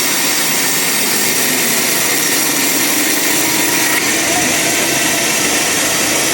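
Band sawmill running through a large log: a loud, steady, unbroken saw noise.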